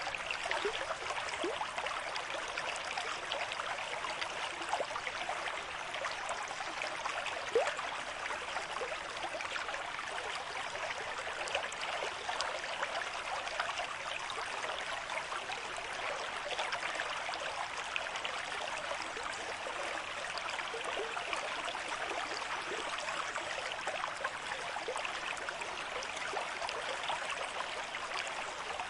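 River stream with moderate flow, water running and burbling steadily over rocks, with one slightly louder splash about seven and a half seconds in.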